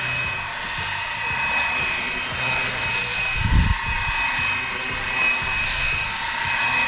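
Fly Wing BO-105 scale RC helicopter in flight: the steady high whine of its electric motor and rotor drive, with a brief low thump about three and a half seconds in.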